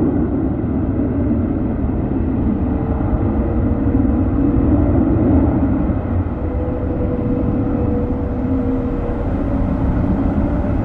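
Airbus A330neo's Rolls-Royce Trent 7000 turbofan engines running loud and steady during a takeoff. There is a steady whine near the middle of the range that wavers slightly, and the sound grows brighter toward the end.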